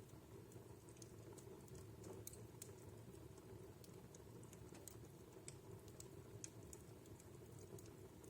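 Wood fire in a home fireplace crackling softly: irregular small sharp pops and ticks, several a second, over a faint steady low rumble.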